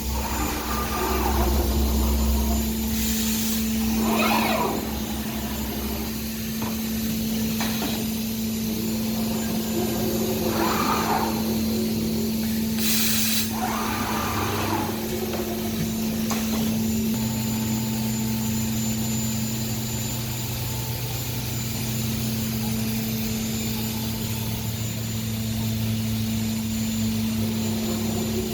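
CNC woodworking router running under a steady motor hum, with several swelling sweeps as the tool works through the panel. There is a short sharp hiss of compressed air about 13 seconds in.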